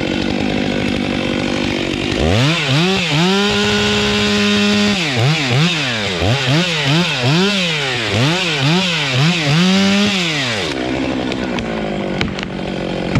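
Two-stroke chainsaw throttled up to full revs about two seconds in and held, then revved up and down repeatedly, about one and a half times a second, before dropping back near the end. Another engine drones steadily underneath.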